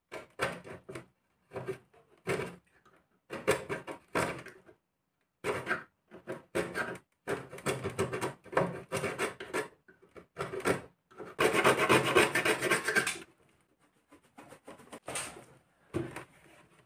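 Razor blade scraping excess hardened glue off the plastic of a repaired refrigerator drawer, in many short rasping strokes with one longer stroke of about two seconds near the middle.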